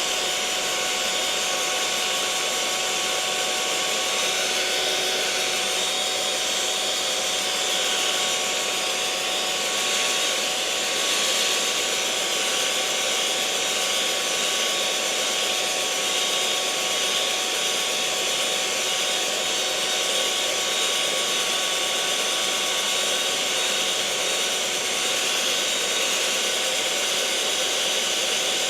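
Electric mixer motor running at a constant speed: a continuous whir with a faint steady whine, unchanging throughout.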